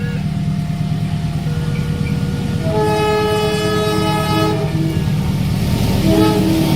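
Train at a level crossing sounding its multi-tone horn: one long blast starting about three seconds in and a short blast near the end, over a steady low engine drone. Thin steady alarm tones from the crossing signal are heard at the start.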